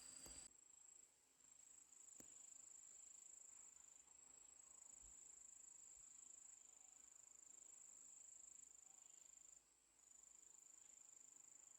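A faint, steady, high-pitched cricket trill that stops briefly about a second in and again about ten seconds in, with a faint click about two seconds in.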